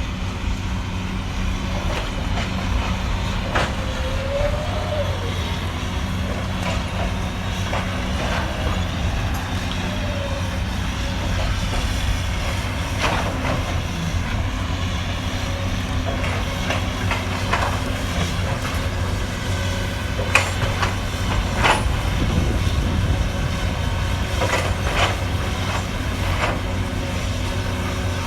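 Cat 320D hydraulic excavator's diesel engine running steadily under load, with a brief hydraulic whine and scattered knocks and cracks of demolition debris, most of them in the second half.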